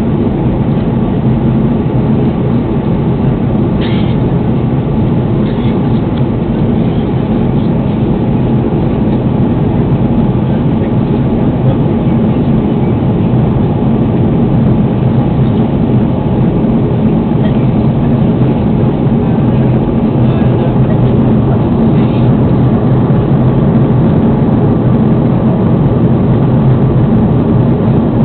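Steady roar of an Airbus A330 in flight as heard inside the passenger cabin: engine and airflow noise with a low hum. There are a few faint clicks about four seconds in and again near the end.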